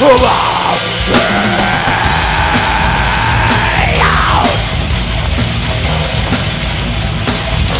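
Heavy metal band playing live: drums and heavy low-end guitars, with a long high note that slowly rises and then slides down about four seconds in.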